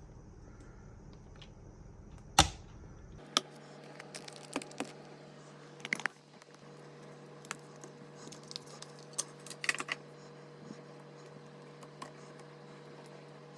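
Scattered clicks and taps of small hard parts being handled during a PC build, with one loud sharp click about two and a half seconds in and irregular lighter clicks after it.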